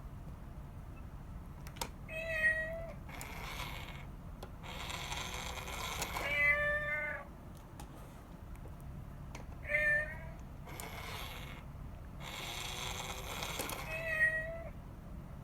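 Cat meowing four times, short calls a few seconds apart, with stretches of noise between them.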